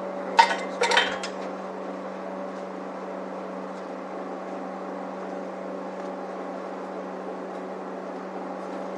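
Two sharp metal clinks about half a second apart, a small steel hand tool being handled or set down, over a steady machine hum with a constant low tone.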